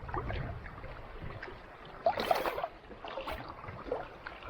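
Kayak paddle dipping and splashing in calm sea water, with irregular small splashes and drips and one louder splash about two seconds in.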